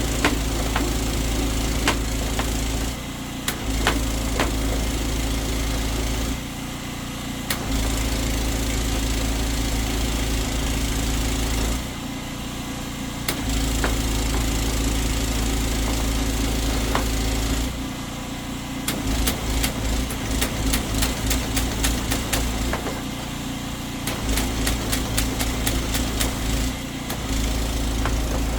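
High-pressure drain jetter running, its engine and pump loading up while the trigger is held and easing off in short gaps each time it is released, a few long bursts at first. From about two-thirds in, the trigger is jabbed rapidly on and off, pulsing the water to move and feel the blockage the worm nozzle is pushing against.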